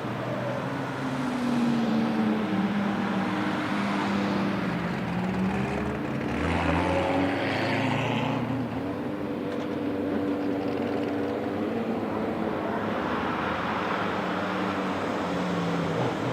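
Car engines running on a race circuit, their pitch rising and falling with the revs. One car comes louder and closer for a couple of seconds around the middle.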